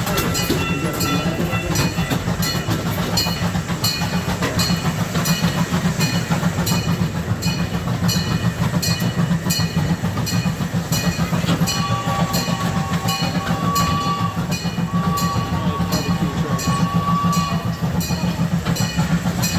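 Small amusement-park ride train running along its track, heard from aboard: a steady low rumble with wheels clicking over the rail joints in an even rhythm. A thin high tone sounds twice in the second half.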